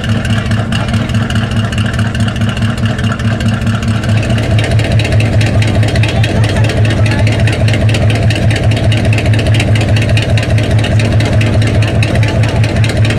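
American V8 car engine running loud and steady with a pulsing beat, growing louder about four seconds in and holding there.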